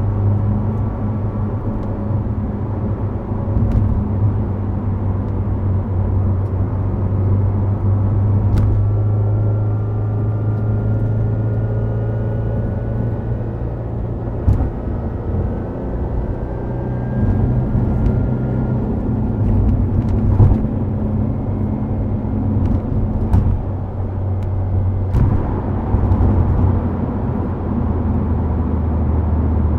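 Subaru WRX STI Spec C's turbocharged flat-four with an A-RM aftermarket exhaust, droning steadily at cruise along with tyre and road noise. Its pitch shifts a little midway and drops lower near the end, and a few sharp knocks cut through.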